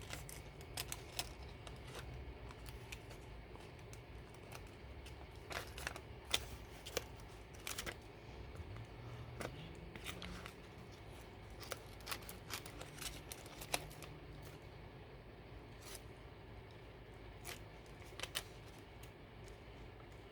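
Scissors cutting paper: faint, scattered short snips with pauses between them.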